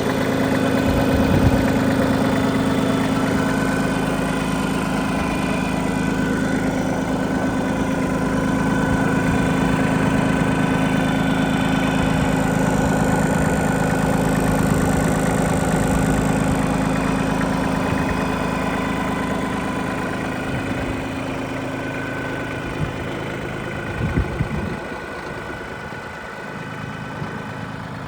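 Iseki TPC15 crawler tractor's engine running steadily, easing off and growing quieter over the last several seconds, with a few short knocks near the end.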